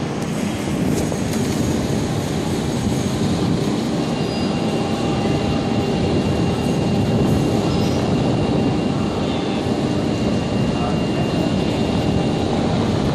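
Heavy rain pouring in strong wind: a steady, dense rush, heaviest in the low range, with no break or change.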